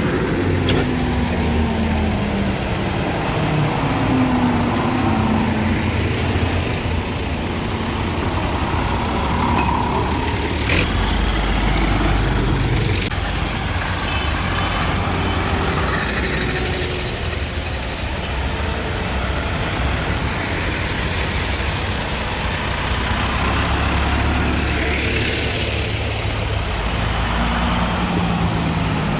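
Tractor engines running as tractors drive past, a steady low rumble with engine pitch rising and falling now and then.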